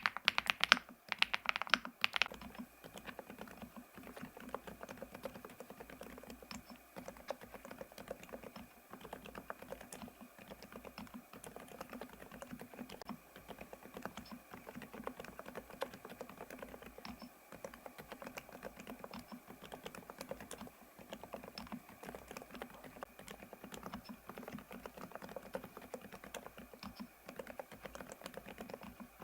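Fast typing on an ABKO A108K full-size mechanical keyboard. Louder clacks from its Mammoth linear switches give way about two seconds in to much softer, muted keystrokes from its Cherry Blossom silent linear switches.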